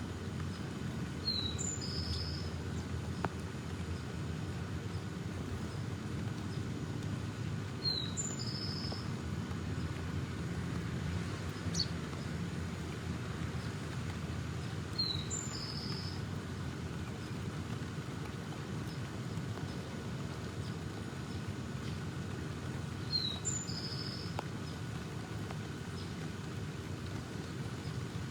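A bird calling four times, about every seven seconds: each call is a short high falling chirp followed at once by a brief buzzy note. Underneath is a steady low rumble of background noise.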